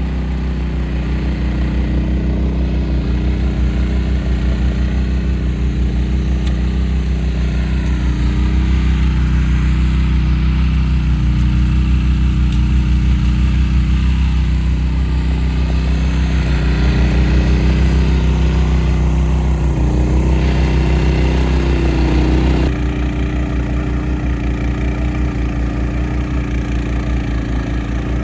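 Honda HSS1332 snowblower's single-cylinder engine running steadily while clearing deep snow. A few seconds before the end the sound drops a little and turns duller.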